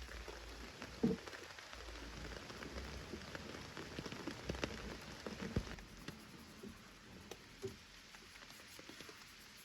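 Rain falling, with many separate drops ticking close by and a few louder knocks. It eases off after about six seconds.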